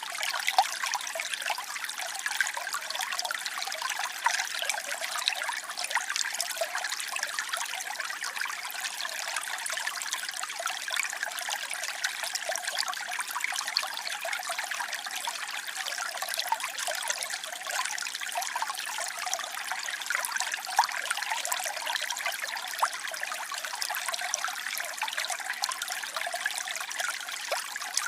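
Waterfall: cascading water splashing steadily, a bright splashing hiss with little low rumble.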